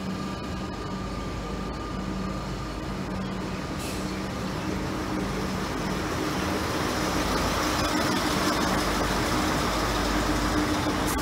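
Coupled V/Line diesel railcars running along the platform. A steady engine drone mixes with wheel and rail noise, both growing louder from about halfway through as the train draws close.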